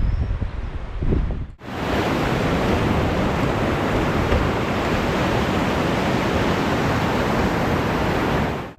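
Wind buffeting the microphone, then, after a cut about a second and a half in, a steady rush of fast-flowing river water that fills the rest of the time and stops abruptly at another cut.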